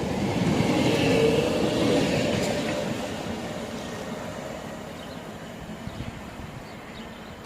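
Class 465 Networker electric multiple unit pulling out, its electric drive whining over the rumble of the wheels. The sound is loudest about one to two seconds in, then fades steadily as the train draws away.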